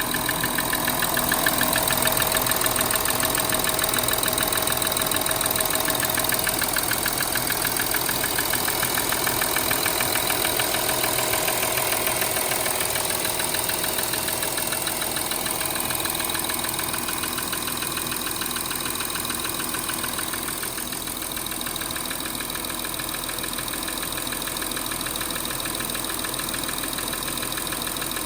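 Audi Q7 3.0 TDI V6 diesel engine idling with a fast, steady ticking from the top end of the engine. The tick is one the owner hears only until the engine reaches operating temperature, strongest on the driver's side near the intake manifold, and not cured by swapping injectors or fitting new valve lifters and rockers.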